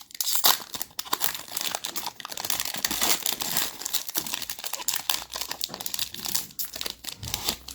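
A trading card pack's plastic wrapper crinkling and tearing as it is ripped open and handled.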